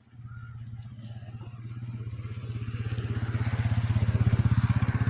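Pressure washer switched on: its motor-driven pump hums low with a rapid even pulsing, growing louder, while a hiss of spraying water builds.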